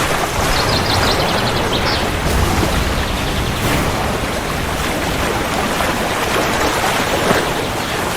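Steady heavy rain falling, a dense even hiss, with a low rumble underneath in the first few seconds.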